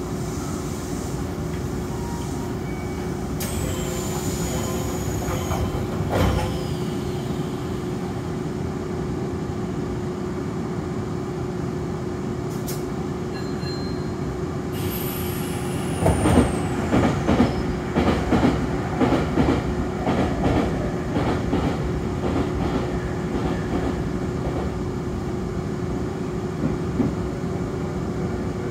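Nankai electric commuter train running at speed, heard on board: a steady rumble with a constant hum. Two thin high squeals fall in pitch, one a few seconds in and one about halfway. From about halfway there is a spell of knocking and clatter over the rails.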